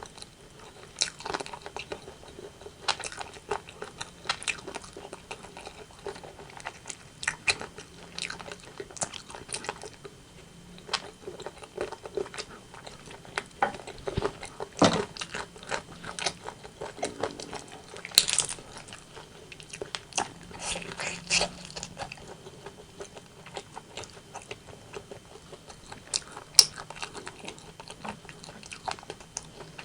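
Close-miked eating of rotisserie chicken: irregular crunching bites into crisp skin and wet chewing, with sharp crackles here and there.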